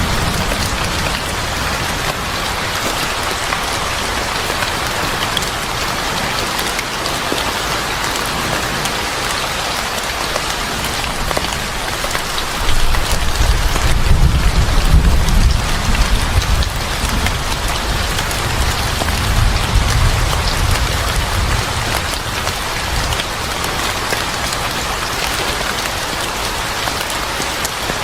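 Steady heavy rain pattering on a surface, with scattered crackles of a wood fire. A low rumble swells about halfway through and again a little later.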